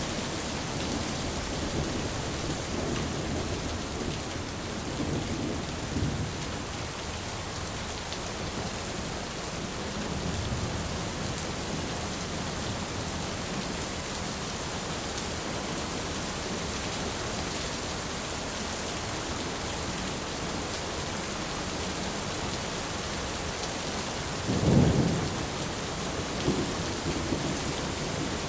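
Thunderstorm: steady rain hissing, with low rumbles of thunder rolling in and out and a louder, sharper thunderclap near the end.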